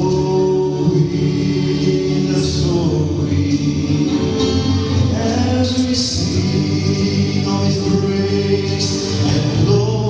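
Male gospel quartet singing in close harmony, with guitar accompaniment.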